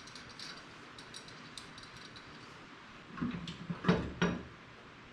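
A wheel rim being fitted onto a ride-on toy vehicle's hub: light clicks of hardware being handled, then a few clunks and knocks about three to four and a half seconds in.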